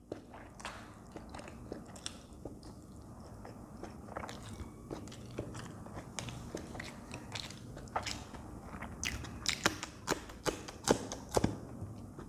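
Close-up mouth sounds of chewing hot masala Maggi noodles, with many short sharp wet clicks. Later come a raw green chili being bitten into and chewed, and the clicks grow louder and thicker for a couple of seconds near the end.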